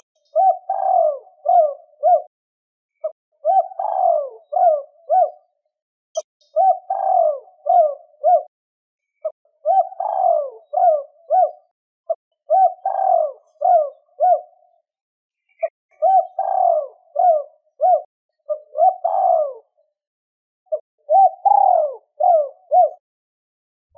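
Spotted dove cooing: a phrase of four or five short coos, repeated about every three seconds with brief pauses between. This is the male's territorial cooing used as a lure call to draw in wild doves.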